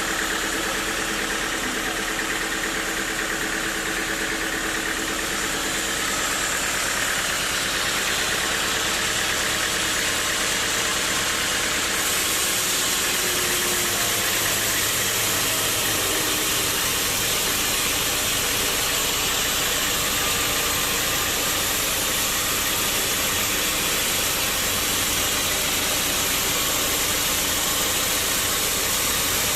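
Sawmill machinery running steadily: a continuous engine-like drone under a hiss, getting a little louder about six and twelve seconds in.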